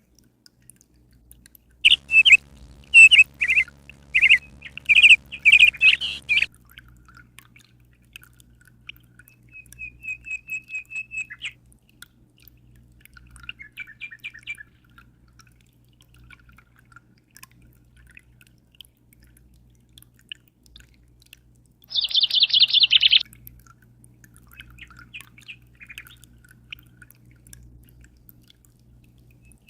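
Songbirds singing and calling: a loud run of repeated chirps for several seconds, a short trill about ten seconds in, and a harsh buzzy call a little after twenty seconds, with fainter calls between. A low steady hum runs underneath.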